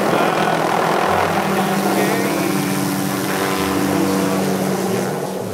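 Helicopter running overhead, a steady rotor and engine noise, with a country song and its singing faintly underneath.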